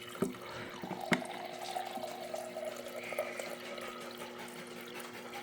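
Water running faintly from a tap, with two small clicks in the first second or so and a steady low hum underneath.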